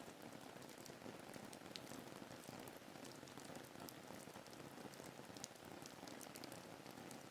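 Faint, steady rain ambience: an even hiss of rainfall with scattered, crisp little drop ticks.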